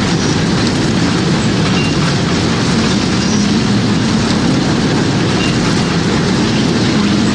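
Tornado sound effect: a loud, steady rumbling roar of wind, heaviest in the low range, with no siren heard.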